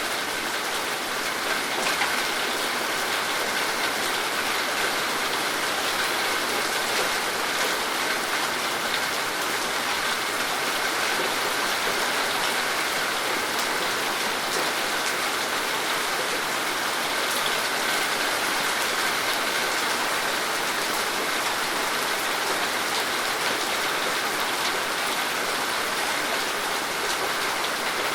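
Steady rain falling, a constant hiss with individual drops ticking through it.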